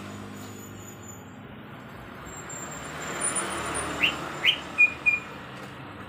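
Asian fairy-bluebird calling: two quick rising whistled notes about half a second apart, then two short, even whistles, over a steady low hum.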